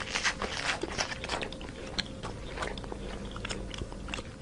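A giraffe chewing: irregular crunching and clicking of its jaws working on food, with a faint steady hum underneath.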